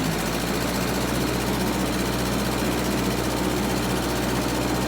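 Massey Ferguson MF 300 crawler dozer's engine running steadily under load as it pushes against an Osage orange (bodock) tree, with a dense rapid rattling clatter over the engine note.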